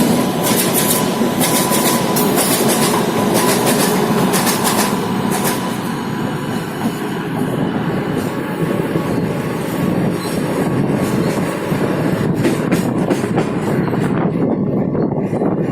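Train rolling past at close range, its wheels clicking over rail joints. The clicking thins out and the high-pitched part of the noise drops away near the end.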